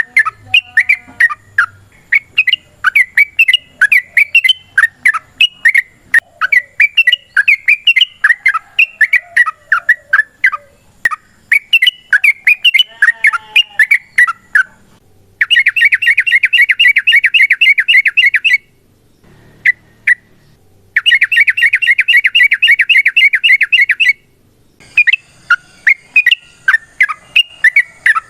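Yellow-vented bulbul (trucukan) singing a run of loud, bubbly chattering notes, broken about halfway through by two long, rapid, evenly repeated trills with a short pause between them.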